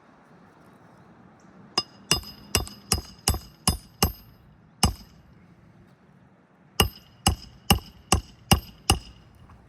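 Hand hammer driving a roofing nail through a roof shingle: a run of about eight sharp blows with a short metallic ring, a pause of about two seconds, then six more blows until the nail is set.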